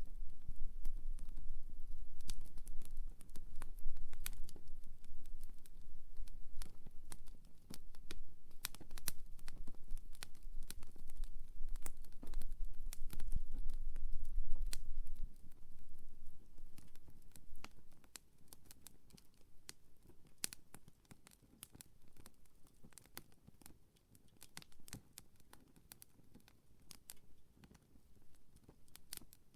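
Small wood campfire crackling, with many sharp irregular pops and snaps over a low rumble. About halfway through, the rumble fades and the crackling becomes quieter and sparser.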